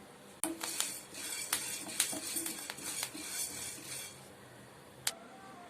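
Horse gram dry-roasting in a metal kadai, the seeds crackling and rattling against the pan in a dense run of sharp pops for about four seconds. Near the end comes a single metallic clink that rings briefly. The popping is the sign that the gram is roasted enough.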